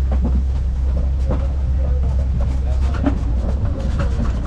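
Open-sided safari truck driving along a bumpy track: a steady low engine and road rumble with frequent irregular knocks and rattles from the vehicle body.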